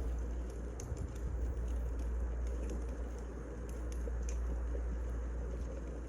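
Wood fire burning: a steady low rumble with scattered sharp crackles and pops of the burning logs.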